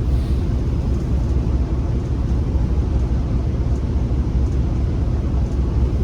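Class 47 diesel locomotive heard from inside its driving cab: a steady low rumble of the engine and running gear, with no sudden events.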